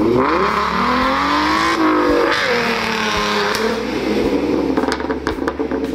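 Car engine revving sound effect, its pitch sweeping up and down several times over a steady low hum, with a few sharp clicks near the end.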